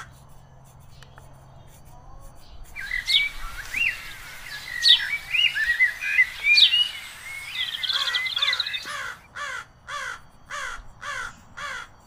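Birds calling: after a quiet start, a few seconds of varied chirps and whistles with quick upward sweeps, then a run of repeated falling calls, about two a second, near the end.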